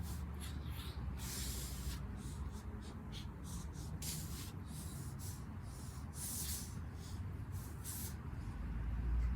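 A man breathing hard through push-ups: short, sharp exhales in an uneven rhythm, a bit more than one a second, over a low steady rumble.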